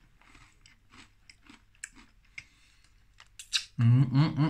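Faint crunchy chewing of hard pretzel pieces, then near the end a loud closed-mouth hum of "mmm" in appreciation.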